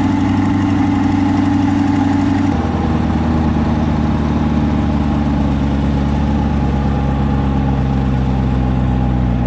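Engine idling steadily, its pitch dropping slightly a little over two seconds in.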